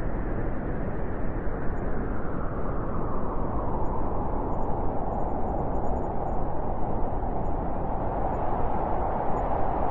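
Blizzard wind blowing hard and steadily, a continuous rushing howl whose tone grows stronger a few seconds in.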